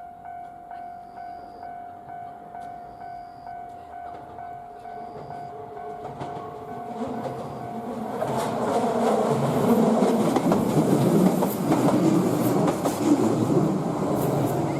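A Shizuoka Railway electric train approaches through the curve and passes close by. Its running and wheel noise builds from about six seconds in and is loudest near the end. Before it arrives, a steady electronic tone with a short high beep about once a second sounds.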